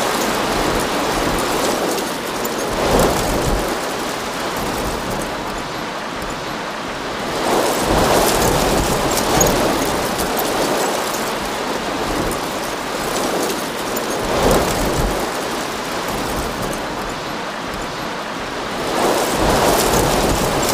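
Heavy rainstorm: steady noise of pouring rain, swelling louder about every five seconds.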